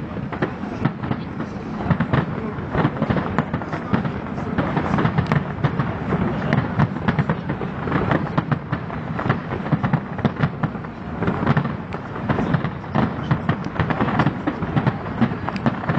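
Fireworks exploding in quick succession: a dense, continuous run of overlapping bangs and cracks.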